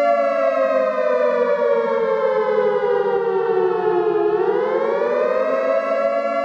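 Siren sounding a steady chord-like tone that slowly falls in pitch for about four seconds, then rises back to a steady pitch near the end.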